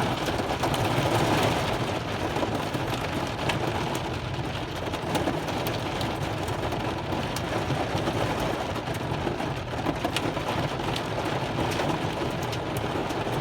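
Heavy rain and hail hitting a car, heard from inside the cabin: a steady rush of rain with scattered sharp ticks of hailstones striking the body.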